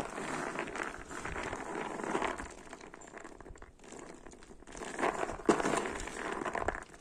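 Pigeon pea pods being split and shelled by hand, a crinkly crackling that comes in two spells.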